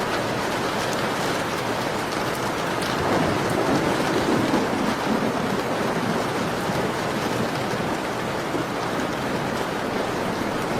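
Steady rain falling, with faint crackles of a wood fire ticking over it; the rain swells louder for a couple of seconds about three seconds in.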